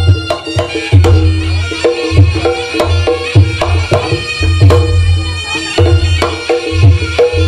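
Loud traditional music: hand drums and deep bass drum beats under a held, reedy wind melody, with a driving regular rhythm.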